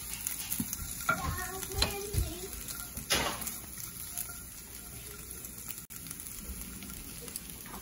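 Scrambled egg frying in a nonstick pan, a steady sizzle, with a wooden spatula scraping and tapping across the pan as it breaks the egg up, one louder scrape about three seconds in.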